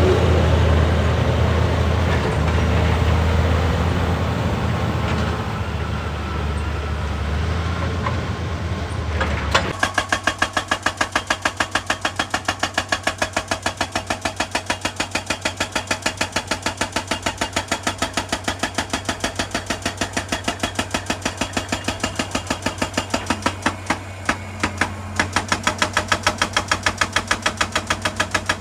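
A heavy excavator's diesel engine running loud and steady under load. About ten seconds in it gives way abruptly to a hydraulic rock breaker hammering rock in a fast, even train of several blows a second, with a short pause near the end.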